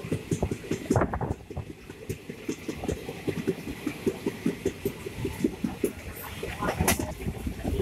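Indian Railways passenger train running on the rails, its coach rattling and clattering with quick, irregular knocks over a steady low hum.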